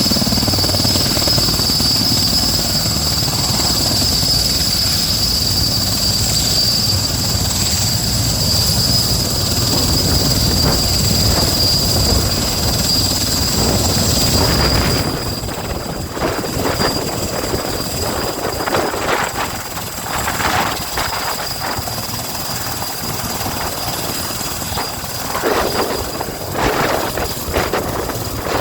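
Sikorsky S-64 Skycrane helicopter running, its twin turboshaft engines giving a steady high-pitched whine over the rumble of the rotor. About halfway through, the sound drops a little and the whine fades. After that it turns uneven, with repeated swells.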